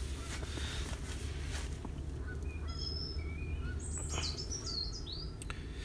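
A songbird singing outside: a few short, high chirps and down-curving whistles from about two and a half seconds in, over a low steady rumble of background noise.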